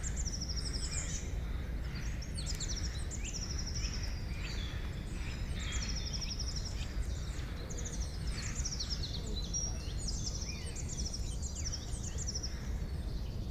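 Several songbirds singing together in a forest, with overlapping chirps, fast trills and short falling calls, over a steady low background rumble.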